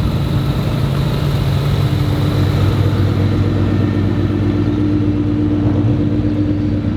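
Car engine running at a steady speed while driving, a constant low drone with road noise.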